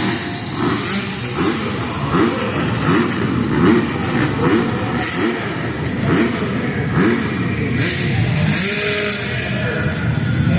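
Several dirt bike engines revving up and down over and over, their pitches rising and falling across one another as the bikes race.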